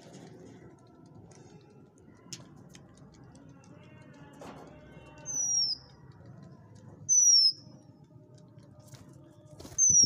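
Three short, sharp, high-pitched whistles from birds, each falling in pitch, spaced about two seconds apart over a low background rumble.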